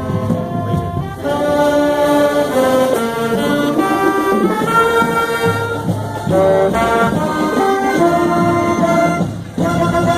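High school marching band playing, the brass section carrying held notes and a changing melody, with a short break about nine seconds in.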